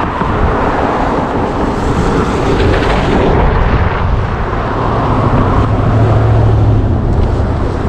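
Motor vehicle running with a steady rumble of engine and road noise; a low hum swells to its strongest about six seconds in, as of a car passing close.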